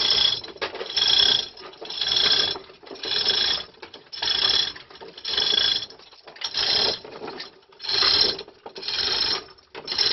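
A hand-operated ratcheting hoist being worked in steady strokes, about one a second, each stroke a run of ringing metallic ratchet clicks, as the roughly 300 lb engine is lifted.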